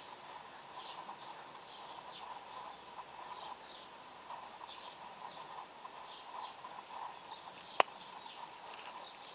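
Small birds chirping in the background in short, falling chirps, one or two a second, over faint outdoor ambience. A single sharp click about eight seconds in is the loudest sound.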